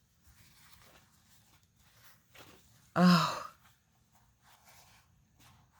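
Faint, scattered rustling as paper goods and packaging are handled, then a woman's breathy, sighed "Oh" about three seconds in.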